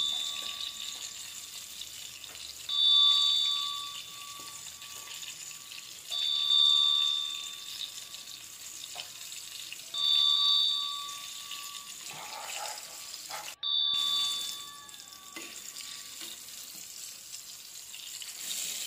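Eggplant omelettes sizzling in hot oil in a stainless steel frying pan as they near doneness, a steady hiss. A bright ding-like chime rings over it about every three and a half seconds, five times in all, louder than the frying.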